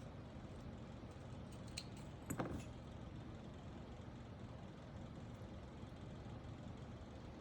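A single sharp click, then a brief clatter of small hard parts being handled about two seconds in, over a steady low hum.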